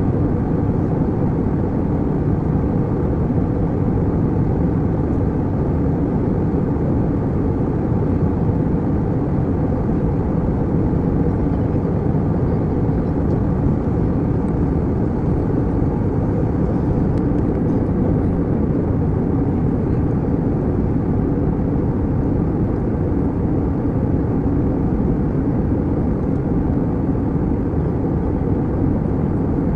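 Airliner cabin noise in flight: a steady, low, even rumble of engines and airflow, unchanging throughout.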